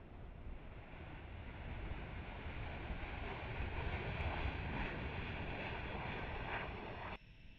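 Jet aircraft engine noise: a steady rushing rumble that grows louder over several seconds, then cuts off abruptly near the end.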